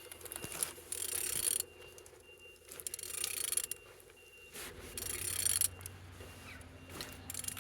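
A removed 1X286 engine being turned over by hand at the crankshaft: three rasping spells of about a second each as it is rotated. It turns freely, a sign the engine is not seized.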